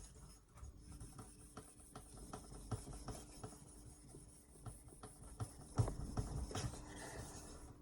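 Faint, irregular scrapes and knocks of whetstones being handled, with a bunch of knocks about six seconds in, over a faint steady hum.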